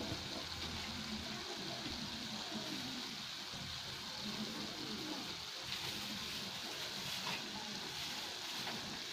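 Laing, taro leaves in coconut milk, sizzling steadily in a wok as the coconut milk cooks down and releases its oil.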